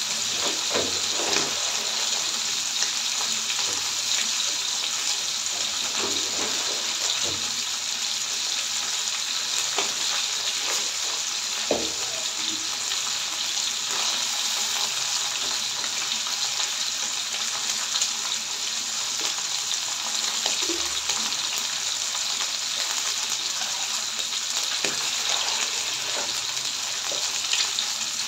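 Fish pieces frying in hot oil in a pan: a steady sizzling hiss with scattered crackling pops and a few soft low knocks.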